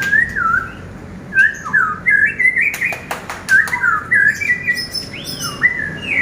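A songbird singing a run of clear whistled phrases, each note sliding up or down, with a few sharp clicks between the phrases.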